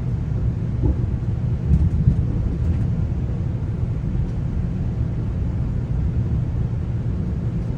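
Steady low rumble of a GO Transit bilevel commuter coach running along the track, heard from inside the coach, with a couple of brief louder bumps about two seconds in.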